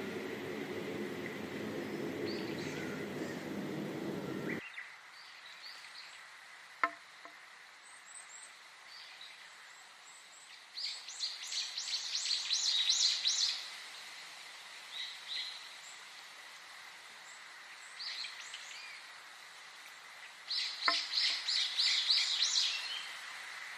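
Wild birds calling and singing: scattered short high chirps, with two longer bouts of rapid repeated notes, one in the middle and one near the end, over a faint steady high tone. A low hum at the start cuts off suddenly about four and a half seconds in. There is a sharp click near the seven-second mark.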